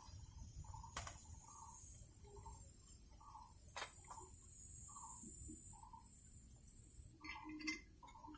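Faint animal call of short, evenly repeated low notes, about two a second, with a few sharp clicks in between and a brief rattle near the end.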